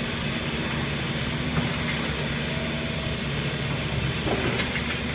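A 22-ton excavator's diesel engine running steadily, with a few short knocks, one about a second and a half in and a cluster near the end.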